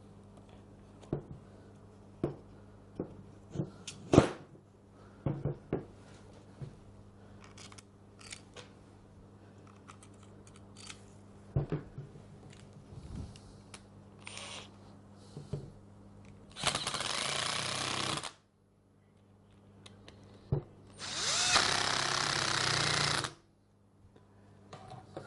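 Metal parts clicking and knocking as a power-tool stator is handled and fitted into its housing, then two short runs of a small electric power tool, about a second and a half and two seconds long, the second rising in pitch as it spins up.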